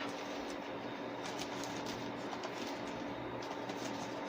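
Steady background hum with a few faint light clicks.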